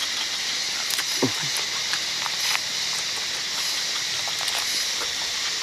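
Eating sounds: scattered soft clicks and smacks of chewing on grilled chicken, over a steady hiss. A brief falling tone sounds about a second in.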